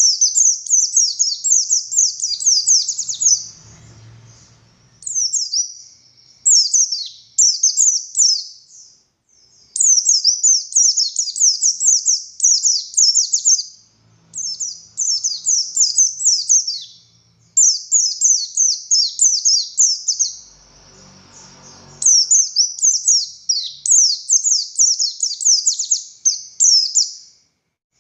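Pleci buxtoni (white-eye) singing in rapid, high-pitched twittering phrases, each a few seconds long with short pauses between, in the loud, continuous 'ngalas' style prized in Indonesian songbird keeping.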